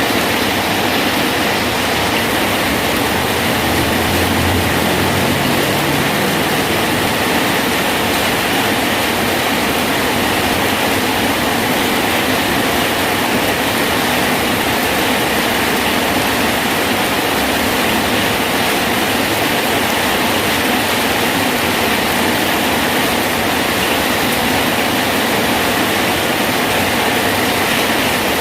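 Heavy rain falling steadily on a bridge: a loud, even hiss of rain with no breaks.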